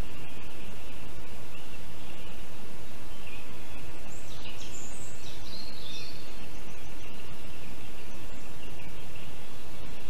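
Steady outdoor background hiss, with a brief flurry of high-pitched bird calls about four to five seconds in.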